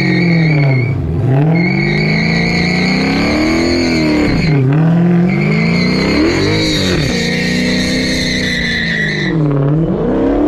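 A car's engine revving up and down in repeated waves, each two to three seconds long, under a steady high-pitched tire squeal. The squeal breaks off briefly twice and stops near the end: the car is spinning its tires.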